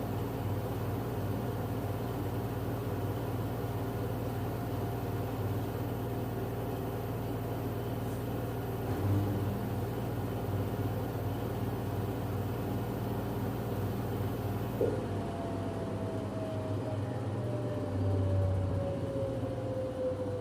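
LG F10B8MD front-loading washing machine in its 1150 rpm final spin, running as a steady hum with motor whine. About three-quarters of the way through there is a click and the motor's tone begins to fall steadily as the drum slows down. There is no bearing rumble or knocking, which the owner takes as a sign that the machine and its bearings are sound.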